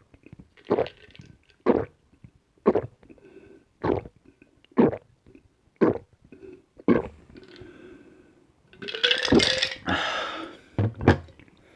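A person gulping a drink in loud swallows, about one a second. Near the end comes a longer breathy sound lasting about a second and a half, then two more quick gulps.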